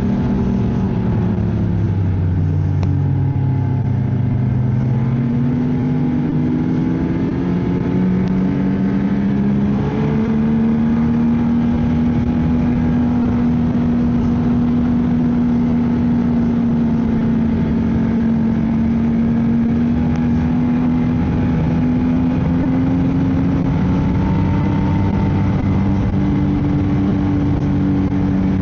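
Ski-Doo snowmobile engine running under way. Its pitch drops as it eases off a couple of seconds in, climbs back up by about ten seconds in, then holds steady.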